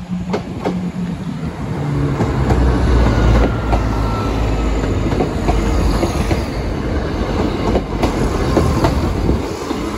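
Class 170 Turbostar diesel multiple unit passing over a level crossing close by. Its engine drone and a deep rumble build about two seconds in, with repeated clicks of the wheels over the rail joints.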